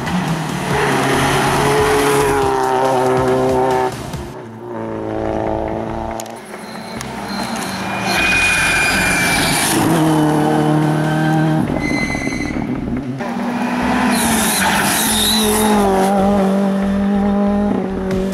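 Rally car engine running hard at high revs, its note breaking and shifting several times as it changes gear or lifts off.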